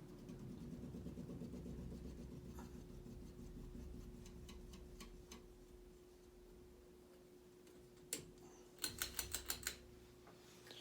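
NuTone Hug-the-Ceiling ceiling fan motor humming steadily and faintly, with a low rumble that fades out about six seconds in. Near the end comes a quick run of about half a dozen sharp clicks.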